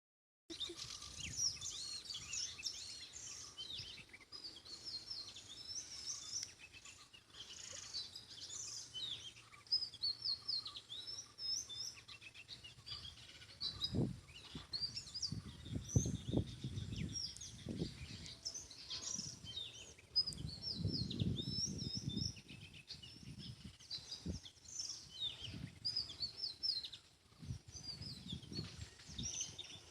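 Several small birds chirping and twittering continuously in quick, high-pitched overlapping calls. Around the middle, bursts of low rumble come and go beneath the birdsong.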